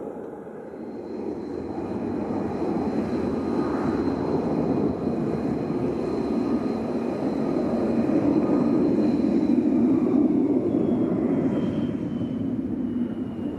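Jet airliner passing: engine noise swells to its loudest about eight to ten seconds in and then eases, while a high whine holds steady and then drops in pitch near the end.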